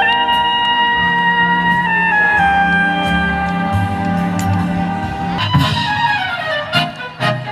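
Symphony orchestra playing held chords with strings and brass, breaking into a falling run of notes about five and a half seconds in. Several sharp cracks sound near the end.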